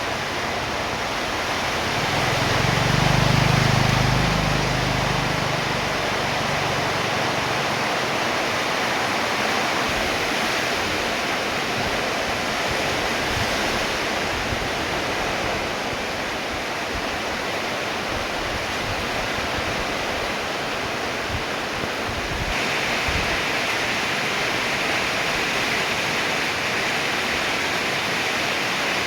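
Steady rain falling, an even hiss with no let-up. A low rumble swells and fades a few seconds in, and the rain grows a little brighter about two-thirds of the way through.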